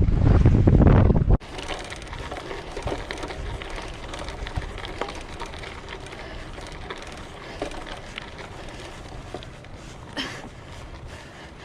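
Wind buffeting the microphone while riding a hybrid bike; it cuts off abruptly about a second and a half in. Then comes a quieter steady rolling noise with faint, irregular ticks and rattles from the bike.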